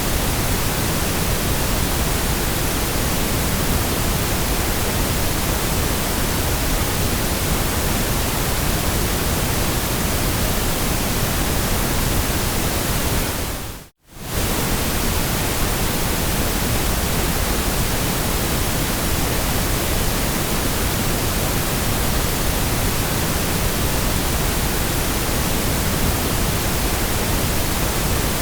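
Steady, even white noise hiss, with a short fade down to near silence and straight back about halfway through.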